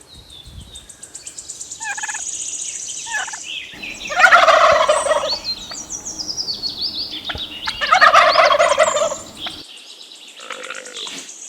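Domestic turkey gobbling: two loud gobbles, about four seconds in and again about eight seconds in, with a few shorter calls before them. Small birds chirp and trill high in the background.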